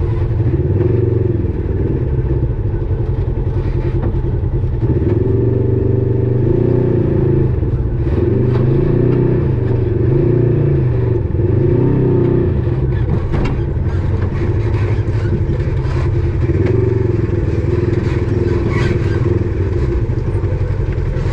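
Polaris RZR side-by-side's twin-cylinder engine running under way, its pitch rising and falling again and again as the throttle is worked on the trail, with occasional knocks and rattles from the chassis.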